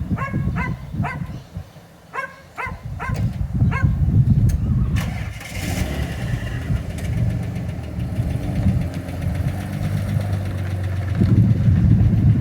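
Old Dodge truck's flathead six engine cranking and catching about five seconds in, then running steadily and picking up louder near the end. Crows caw several times over the first few seconds.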